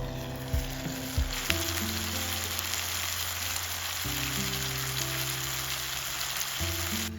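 Food sizzling in a frying pan: a dense, steady sizzle that starts about a second and a half in and cuts off suddenly near the end, after a few light knocks at the start. Soft background music plays underneath.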